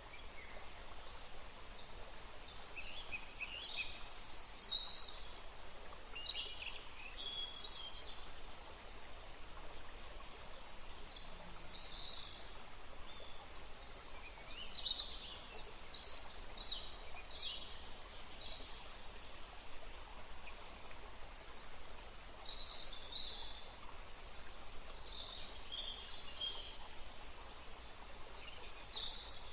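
Several wild birds chirping and singing in short, high calls scattered throughout, over a steady hiss of gently flowing river water.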